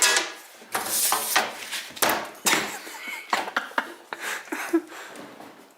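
Small metal hardware, such as one-way screws, clinking and clattering as it is handled: a run of irregular sharp clicks that thin out toward the end.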